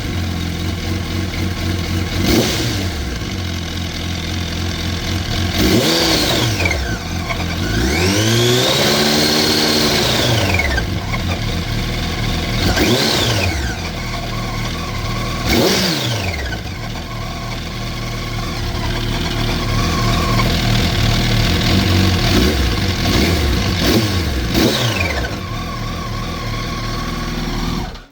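2004 Yamaha YZF-R1's inline-four engine idling and blipped on the throttle several times, with one longer, slower rev-up and fall in the middle. It makes a bad engine sound that the owner suspects comes from the cam chain tensioner.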